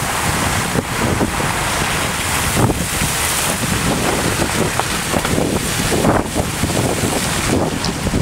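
Storm wind buffeting the microphone, with the wash of surf underneath.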